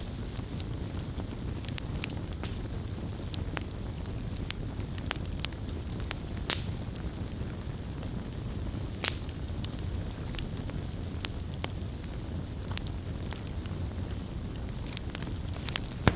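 Wood campfire crackling: a steady low rush of burning with irregular sharp pops and snaps, two of them louder, about six and a half and nine seconds in.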